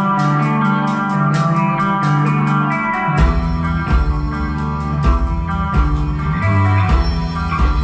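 Live band playing a song's instrumental intro: a guitar figure over sustained chords, with bass and drums coming in a little over three seconds in.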